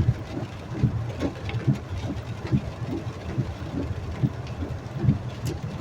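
Hail hitting a moving car, heard from inside the cabin: irregular dull thumps several times a second over the car's steady low rumble, with a few sharper clicks.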